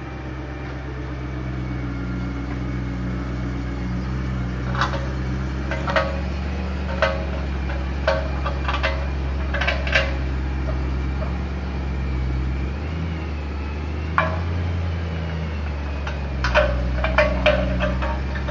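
A 2008 BMW M3 rolling slowly under a steady low hum, with a short, loud scrape from a wheel repeating about once a second from about five seconds in, then more irregularly, including a quick cluster near the end.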